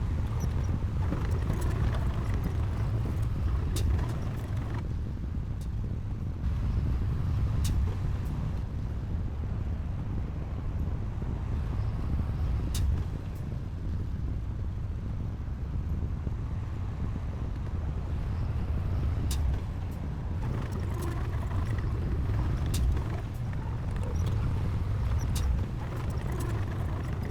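Heavy diesel earthmoving machinery running steadily with a deep low rumble, with occasional sharp clanks and knocks.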